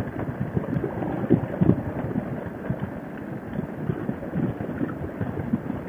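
Wind buffeting a motorcycle helmet microphone on the highway: an uneven rushing rumble with irregular low thumps.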